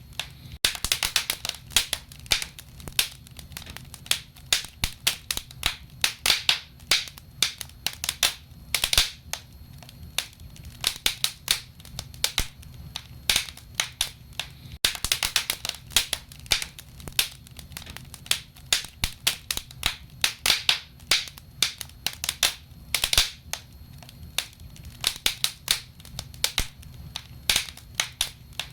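Wood fire in a fireplace crackling and popping, with many irregular sharp snaps over a low steady rumble of the flames.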